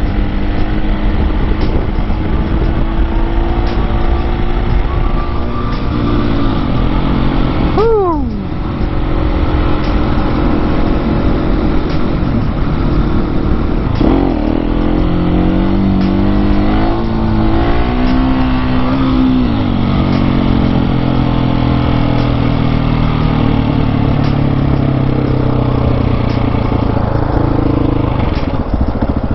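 Husqvarna 701 supermoto's single-cylinder engine running on the move, with a low rush of wind noise. The revs drop sharply about eight seconds in, then climb and step through changes again between about fourteen and twenty seconds.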